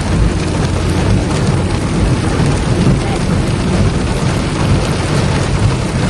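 Heavy thunderstorm rain pouring steadily, with a constant low rumble underneath.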